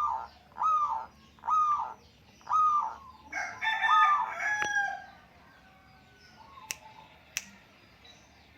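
Birds calling: a string of short arched calls about once a second, then a denser overlapping flurry of calls, dying away about halfway through. Two sharp clicks follow near the end.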